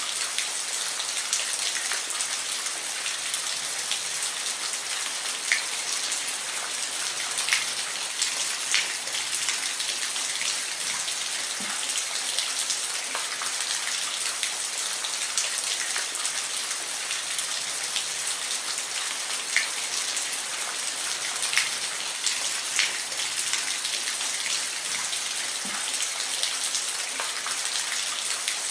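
Steady rain falling: an even hiss with scattered louder individual drops ticking on a surface.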